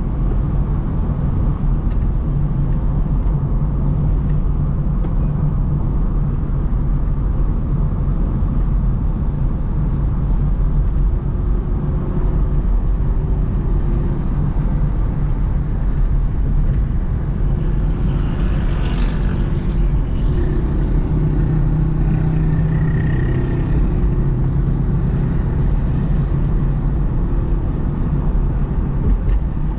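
Steady low rumble of a car driving on a city road: engine and tyre noise, with a brief rise in hiss about two-thirds of the way through.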